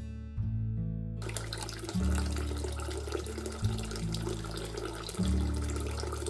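Background acoustic guitar music, its chords changing every second and a half or so; about a second in, a steady watery hiss comes in, wort heating in the boil kettle as it comes up to the boil.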